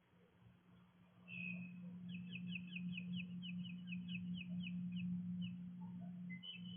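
A songbird singing a quick run of repeated down-slurred whistled notes, about four or five a second for some three seconds, with a few single notes after. Under it, a steady low hum starts about a second in.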